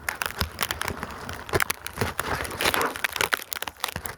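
Snow crunching and crackling close to the phone's microphone: a dense run of irregular sharp crackles and short crunches.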